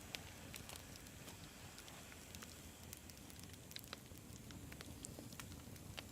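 Wood campfire burning: a low steady rumble of flame with frequent small, sharp crackles and pops at irregular intervals.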